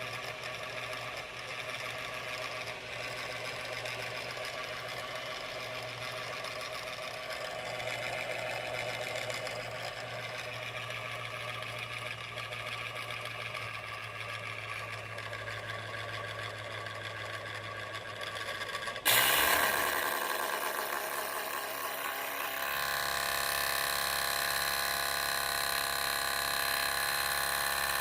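MSI PE60 6QE gaming laptop's cooling fan running with a steady buzz and hum, the problem noise the owner finds too loud. About two-thirds of the way through it abruptly gets louder, with more rushing air and several steady high whining tones.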